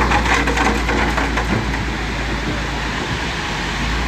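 Bulldozer's diesel engine running with a steady low rumble, with a quick series of knocks and rattles in the first second and a half.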